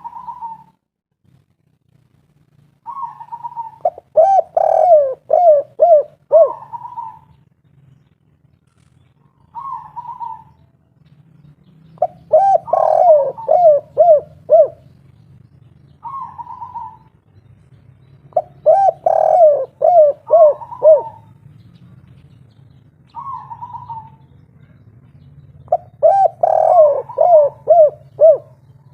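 Spotted dove (tekukur) of the 'kuk 3' song type singing its cooing song: each phrase opens with a short higher note and runs into a string of lower, rhythmic coos, repeated four times about seven seconds apart.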